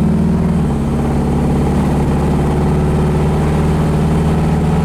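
The 1968 Camaro's 400 cubic-inch V8 with headers and dual exhaust running steadily under light load while driving, its low engine note easing slightly about half a second in and then holding even.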